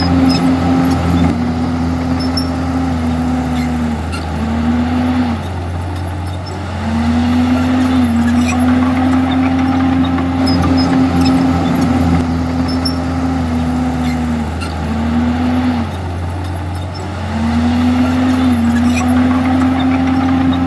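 Komatsu D51EX bulldozer's diesel engine running hard with a steady pitch, which twice sags and quietens for a second or two, about ten seconds apart, before picking back up.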